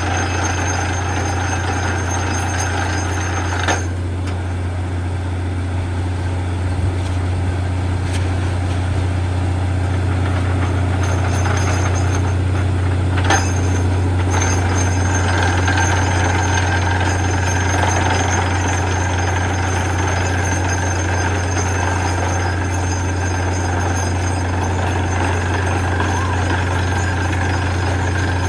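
Borewell drilling machine running steadily, a deep constant engine drone with noise from the drilling above it. Two brief knocks stand out, about four and thirteen seconds in.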